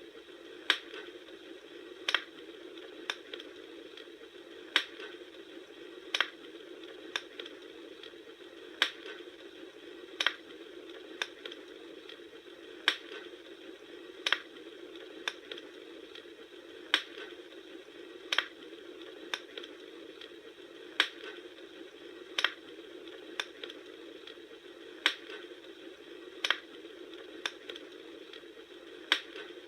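Campfire crackling: sharp pops from the burning wood about every second and a half, in an evenly repeating pattern, over a steady hiss.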